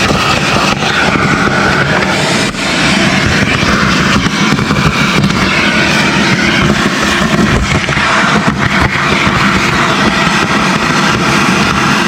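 A machine's motor running steadily and loudly, with a rushing hiss over a low hum and a few short knocks and clicks.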